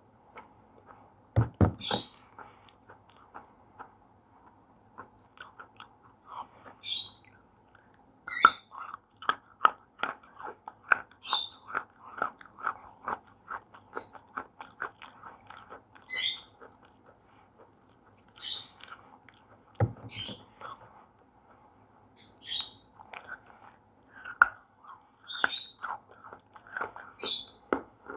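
Slate pencils being bitten and chewed close to the microphone: a few hard snapping bites among runs of rapid, gritty crunching.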